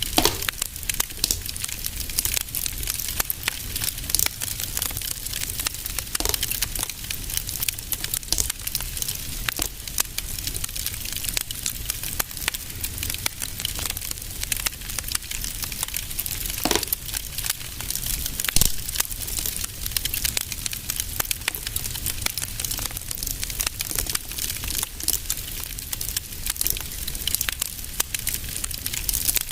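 Wood fire crackling in a fireplace: a steady stream of fine crackles, with a few louder pops (about 6, 17 and 19 seconds in), over a low rumble.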